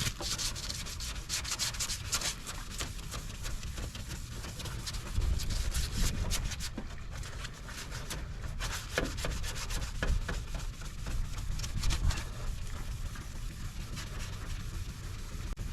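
Sandpaper rubbing over a plastic car headlight lens during wet sanding, in quick repeated strokes.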